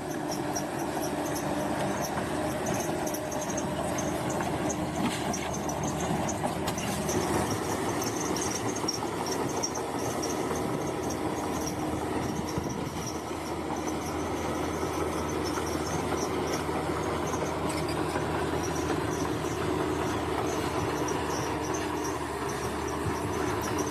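Crawler bulldozer working: its diesel engine runs steadily under the metallic clatter of its steel tracks. Insects chirp in a high, flickering band throughout.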